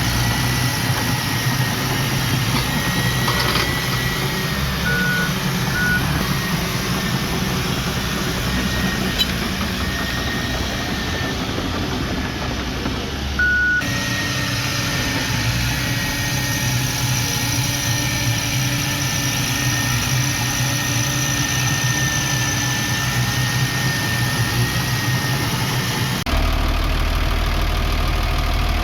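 Diesel engines of heavy earthmoving machinery, a bulldozer and dump trucks, running steadily, with a few short beeps about 5, 6 and 14 seconds in. The engine sound changes abruptly twice, about 14 and 26 seconds in.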